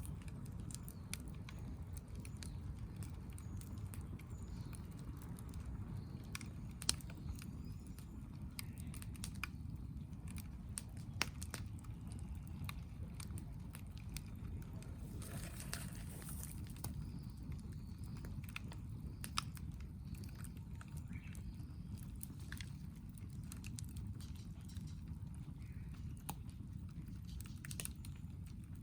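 Wood campfire crackling and popping: scattered sharp snaps over a steady low rumble of burning, with a few louder pops and a short hiss about halfway.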